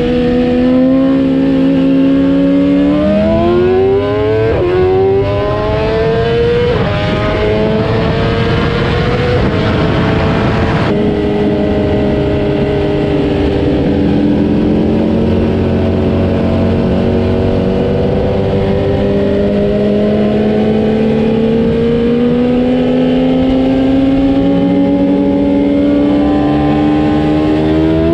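A vehicle engine revving up under load on a dyno, its pitch climbing with two brief dips in the first few seconds. About 11 seconds in the sound changes suddenly, and the engine then climbs again slowly and steadily in pitch.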